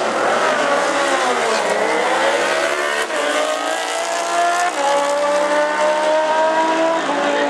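Two sport-bike engines at full throttle on a drag-strip run, their pitch climbing and then dropping back at each gear change.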